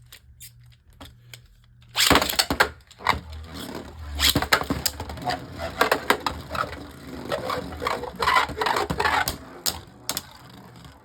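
Two Beyblade Burst tops launched into a plastic stadium about two seconds in after a few light clicks, then spinning, scraping and clashing against each other with repeated sharp knocks.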